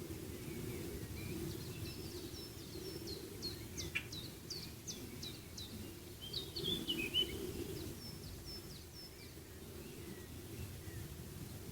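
Small birds chirping in quick repeated short notes, many dropping sharply in pitch, over a steady low background rumble.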